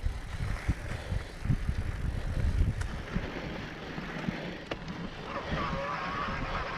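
Mountain bike ridden over a rough trail: wind buffeting the microphone and low rumbling bumps from the ride. About five seconds in, a wavering high tone comes in and holds.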